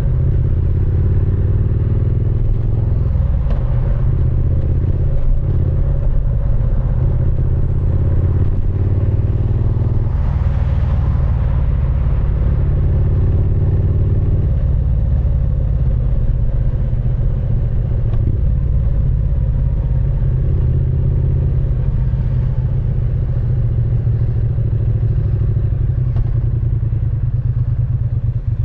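Triumph Speed Twin 900's parallel-twin engine and exhaust running under way, a steady deep rumble with the revs rising again and again as the bike accelerates through the gears.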